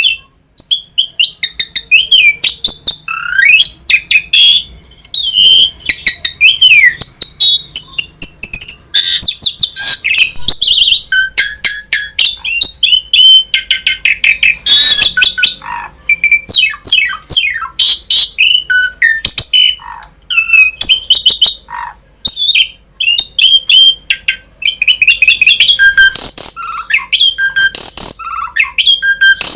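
Asian pied starling (jalak suren) singing a long, varied song. It keeps up a fast, unbroken string of gliding whistles, chirps, clicks and harsh squawks.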